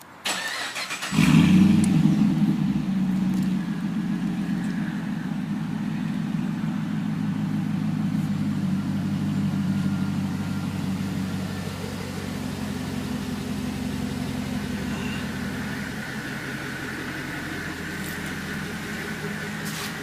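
2008 Pontiac G8 GT's 6.0-litre V8, through a Solo Mach Shorty balanced exhaust, cranking and catching about a second in. It flares up loudly, then settles into a steady idle.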